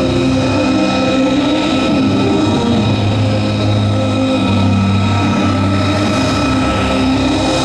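Aircraft engine running steadily and loudly, with a high steady whine over a low drone.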